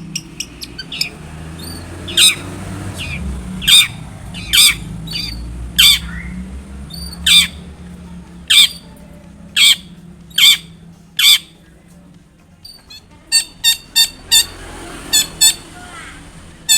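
Long-tailed shrike (cendet) giving loud, harsh calls, one sharp call roughly every second, then a quicker run of short notes near the end. A low steady hum lies underneath.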